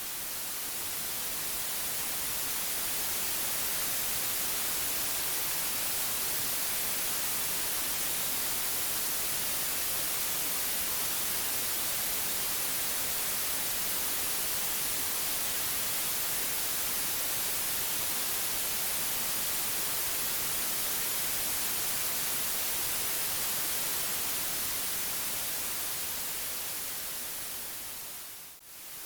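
Generated white noise: a steady, even hiss across all pitches, strongest in the high end. It swells up over the first few seconds and fades down to a brief dip near the end, like the seam of a looped track.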